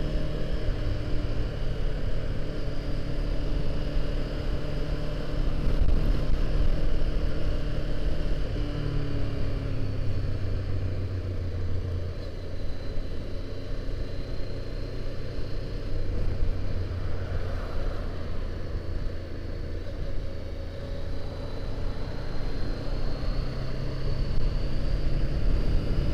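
Honda CBR500R's parallel-twin engine running while riding, over a steady rush of wind and road noise. The engine note drops about nine seconds in.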